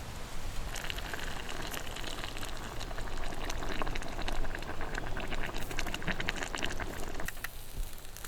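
Food cooking over camp heat: a steady sizzling and bubbling thick with small pops, which starts about a second in and falls away near the end.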